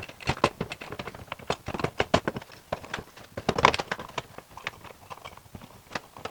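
Irregular clicks, taps and knocks of hand tools and small parts being handled against the plastic lid ring of a compost tumbler, with the loudest cluster of clatter a little past halfway.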